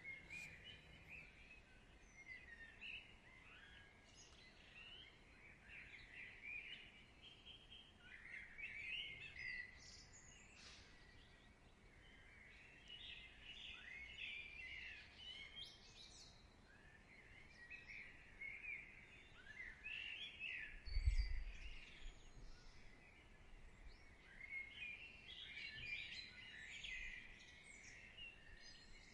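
Faint birdsong: small birds chirping in recurring bursts of short, high calls over a soft, even background hiss. A brief low thud comes about two-thirds of the way through.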